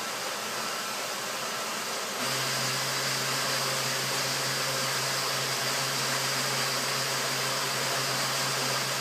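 Countertop blender motor running steadily, blending a thick shake with ice; about two seconds in its sound steps up, louder, with a deeper hum and a higher whine.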